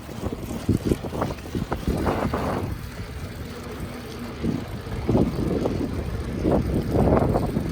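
Wind buffeting the microphone in irregular gusts over a steady low rumble of movement.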